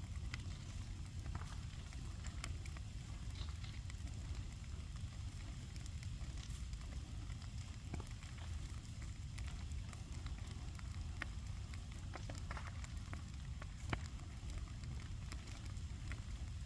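Bonfire of old fence timber burning: scattered crackles and pops over a steady low rumble, with one sharper pop about fourteen seconds in.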